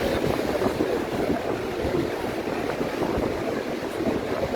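Ocean surf washing on the beach, heard as a steady rushing noise, with wind buffeting the microphone.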